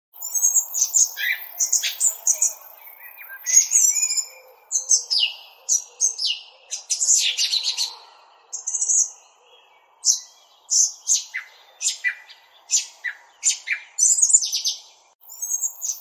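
Small birds chirping: many short, high-pitched calls in quick clusters of several a second, some overlapping, with brief pauses between clusters.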